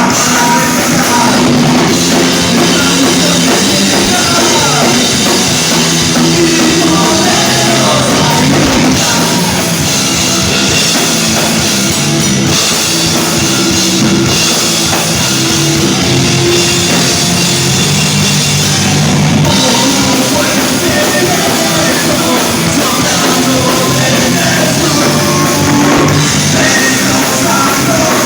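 Rock band playing live, loud, with a drum kit and a singer.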